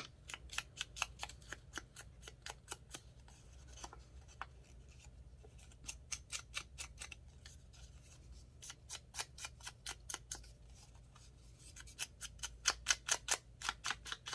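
Quick runs of light, sharp clicks, about five a second, from hand paper-crafting work on a small cut-out, pausing for a few seconds mid-way and then resuming, louder near the end.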